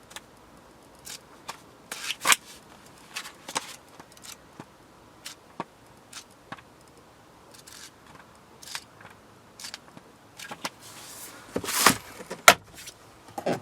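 Scattered light clicks, rustles and scrapes of objects being handled inside a car's cabin, with a louder cluster of them about twelve seconds in.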